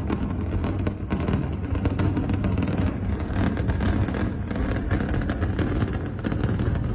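A vehicle running with a steady low rumble, overlaid by continuous crackling and rattling.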